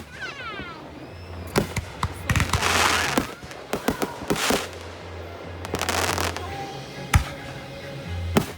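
Fireworks going off: a falling whistle just after the start, then several sharp bangs and hissing, crackling bursts, with the loudest single bang about seven seconds in.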